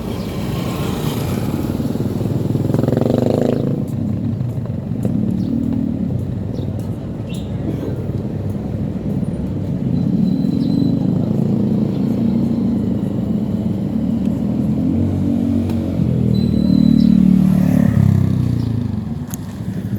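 Motorcycle engine running during a ride, its note rising and falling with speed and getting louder twice, about three seconds in and again near the end.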